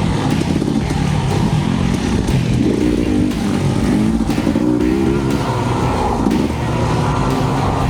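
Dirt bike engine revving up and down as the throttle is worked over rough single-track, with a few knocks in between.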